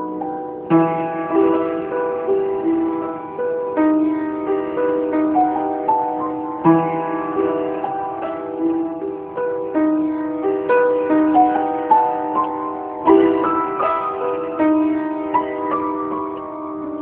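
Solo piano playing a slow, gentle melody over sustained chords. A fresh chord is struck every few seconds, with the loudest about a second in and again near 13 seconds.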